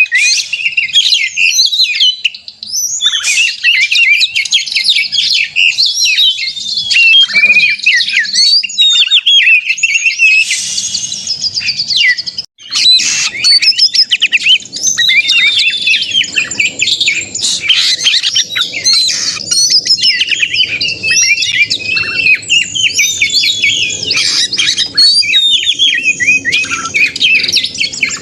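Oriental magpie-robin (kacer) singing continuously in fast, varied whistled phrases in full fighting song, the kind of song used to provoke other magpie-robins into singing. The song breaks off for a moment about twelve seconds in.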